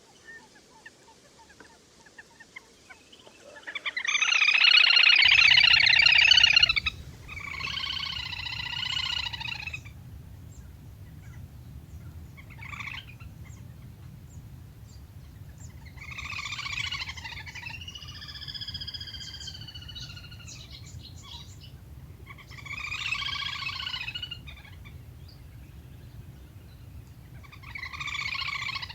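Recorded calls of the le le hôi waterbird, used as a flock-calling lure: a series of pitched, chattering call bouts one to three seconds long with gaps between them, the loudest about four seconds in. A low steady hum comes in under the calls about five seconds in.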